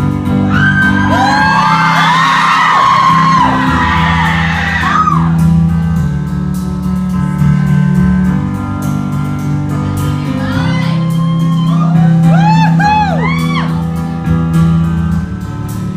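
Live band playing the instrumental intro of a ballad with sustained chords, while audience members scream and whoop over it in two spells, early on and again past the middle.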